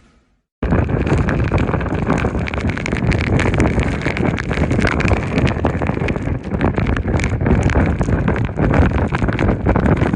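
Strong typhoon wind buffeting the microphone: a loud, rough rush full of crackles that starts suddenly about half a second in and keeps on steadily.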